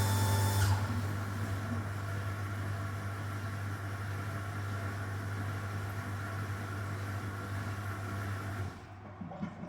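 Commercial hood-type dishwasher running with a steady motor hum: it changes from the wash to the rinse stage about a second in, then shuts off and goes silent near the end, the sign that the cycle is finished.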